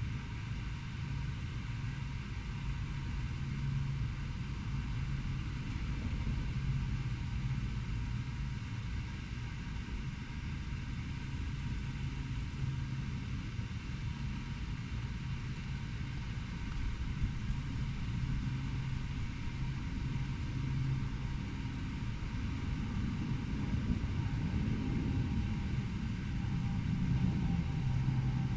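Steady low urban background rumble, with a constant low hum underneath, getting a little louder in the last few seconds.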